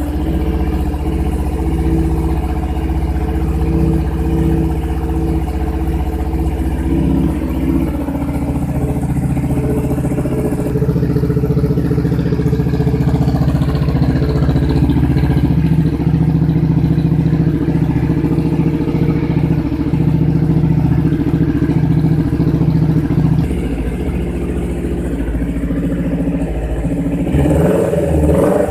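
Kawasaki Z1000 inline-four engine running through an aftermarket racing exhaust, held at raised revs with light throttle. The note steps up about ten seconds in, eases back a little after twenty-three seconds, and changes quickly in short blips near the end.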